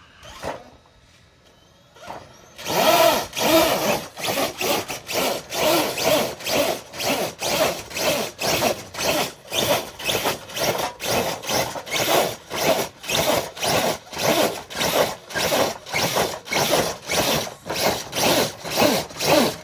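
Traxxas TRX4 High Trail RC truck dragging a weighted sled. From about two and a half seconds in there is a rhythmic grinding and scraping that surges two to three times a second as the truck pulls.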